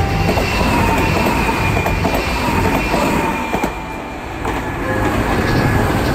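Kintetsu electric train passing, with a loud rumble of wheels and clacks over the rail joints. A steady high whine above it falls slightly in pitch.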